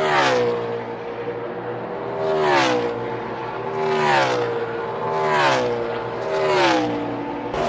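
NASCAR Gen 6 V8 stock cars racing past one after another, about five in quick succession, each engine note dropping in pitch as the car goes by.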